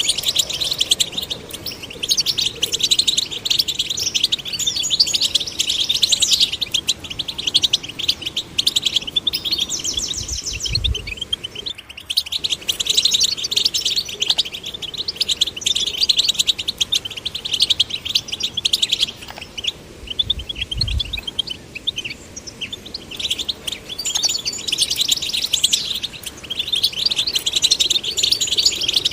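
European goldfinch song: a fast, continuous tinkling twitter of chirps and trills, with a short break about twelve seconds in. Two brief low thumps sound under it, about ten and twenty seconds in.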